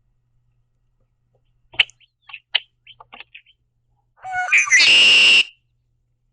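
Red-winged blackbird giving a few soft, short chips, then, about four seconds in, its loud call: a quick rattly start running into a buzzy trill about a second long.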